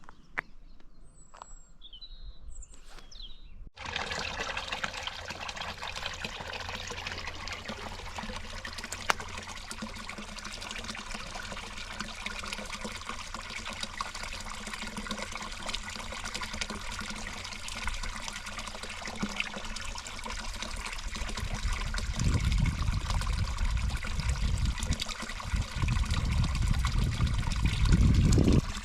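Running water trickling steadily, cutting in abruptly a few seconds in after a near-quiet start with a few short bird chirps. From about two-thirds through, a loud low rumble runs under the water.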